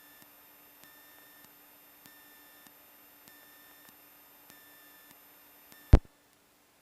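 Faint electrical hum on the cockpit audio feed, with a short beep tone repeating about every 1.2 seconds and light ticks between. A loud click comes near the end, and the signal cuts off dead.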